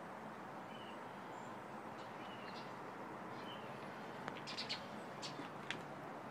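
Small birds chirping now and then over a steady outdoor background hiss, with a quick run of sharper, louder high chirps about four to five and a half seconds in.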